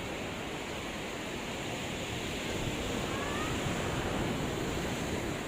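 Sea surf washing steadily onto the beach, a continuous hiss of breaking waves that swells slightly toward the end.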